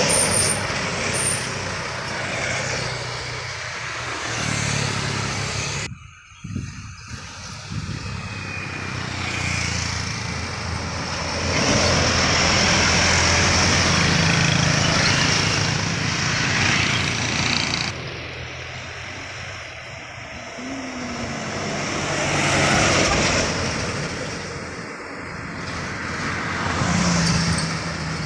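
Heavy road traffic on a steep climbing bend: truck diesel engines running at low speed as they pass, the sound swelling and fading several times, with a sudden brief drop about six seconds in.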